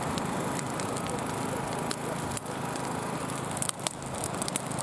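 A large wood campfire burning, with scattered sharp crackles and pops over a steady rushing hiss; the pops come thicker near the end.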